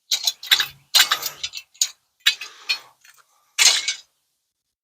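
Footsteps crunching on gravel and broken debris: a series of short, irregular crunches about every half second.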